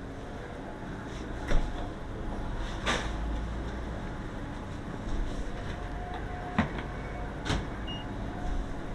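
Several sharp clicks and knocks, the loudest about one and a half seconds in, over a steady low hum.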